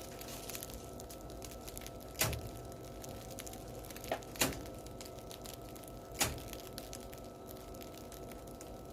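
Crusts of freshly baked baguettes crackling as they cool, a steady fine crackle like burning firewood, with four sharper cracks, two of them close together near the middle.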